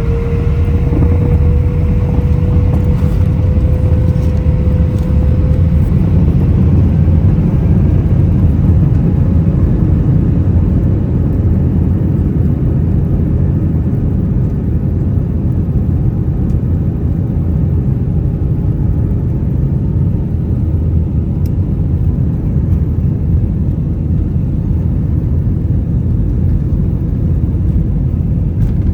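Airbus A319's IAE V2500 jet engines heard from inside the passenger cabin: a loud, steady, deep rumble with a faint engine whine that rises slightly over the first few seconds and then holds steady.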